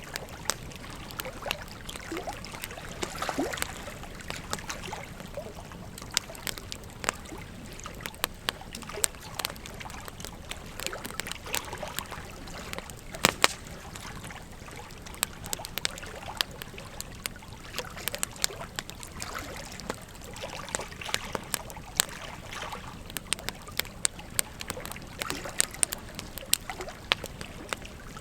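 Wood fire crackling, with frequent irregular sharp pops and snaps, over the steady rush of a flowing river.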